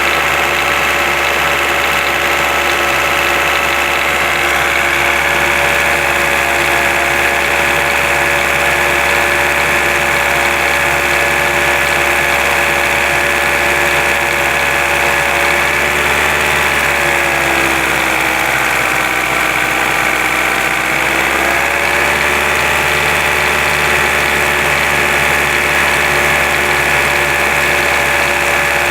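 An engine idling steadily; a little past halfway its speed sags for a few seconds, then picks back up to the same idle.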